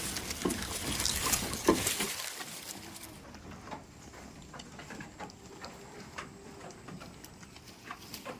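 Irregular light taps and rustling, busy and dense for the first two seconds, then sparser scattered clicks.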